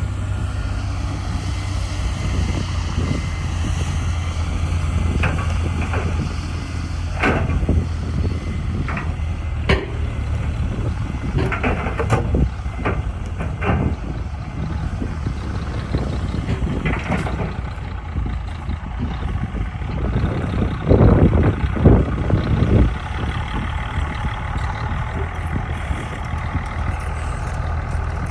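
Heavy diesel earthmoving machinery running steadily with a low engine drone. Scattered sharp clanks and short bursts break in, loudest in a cluster about three quarters of the way through.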